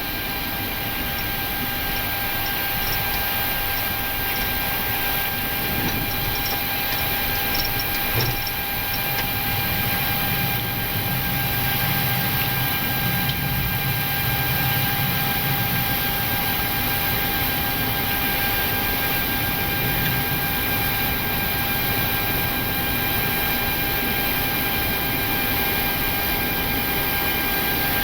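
Steady flight-deck noise of a Boeing 737-800 holding on the runway with its engines at idle: an even hiss under a constant high-pitched hum. A single short knock about eight seconds in.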